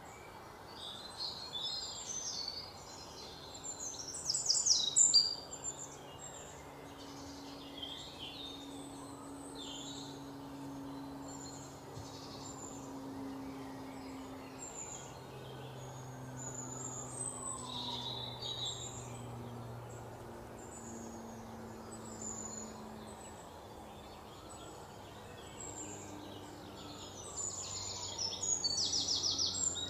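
Small birds chirping and calling, with quick rapid trills about four seconds in and again near the end, over a faint steady low hum.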